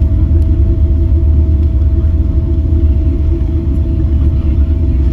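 Cabin noise inside a Boeing 777-300 on the ground after landing: a steady heavy low rumble from the engines and rolling gear, with a steady hum held on one pitch.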